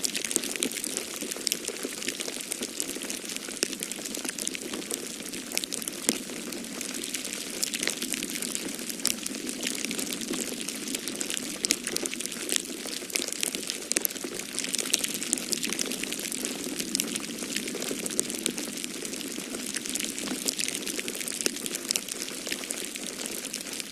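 Wood fire crackling in a fireplace, with frequent sharp pops and snaps over a steady rushing of storm wind.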